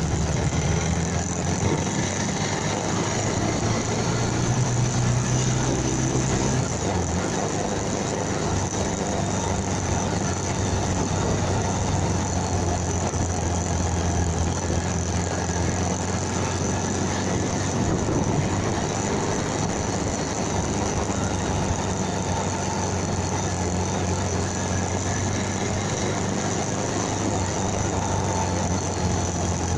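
Motorcycle engine running steadily under a steady hiss, with a brief change in its note between about four and seven seconds in.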